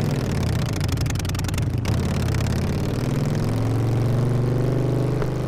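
Harley-Davidson V-twin motorcycle engine running through a loud exhaust, its pitch climbing over the second half as the bike accelerates.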